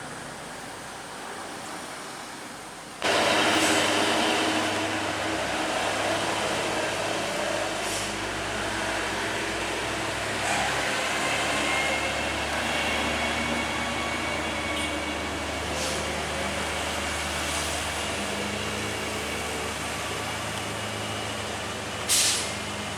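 Heavy truck engine running steadily amid road noise, getting suddenly louder about three seconds in, with a short, sharp hiss near the end.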